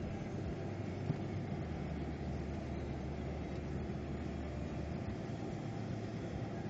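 Car engine running, heard from inside the cabin as a steady low rumble, with a single short click about a second in.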